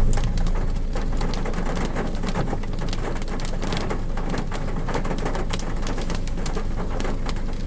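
Rain falling on a car's roof and windscreen, heard from inside the cabin: many separate drop hits over a steady low rumble.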